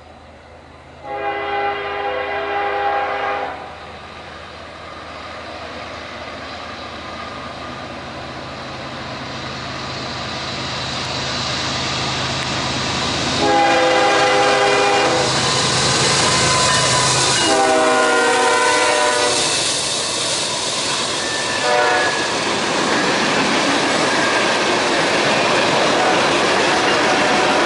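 Freight train led by BNSF GE ES44AC and C44-9W diesel locomotives approaching and passing: the lead unit's air horn sounds a long blast about a second in, then more blasts around the middle, the last falling in pitch as the locomotives go by, over the rising drone of the diesel engines. Then the steady rumble and clickety-clack of tank car wheels on the rails.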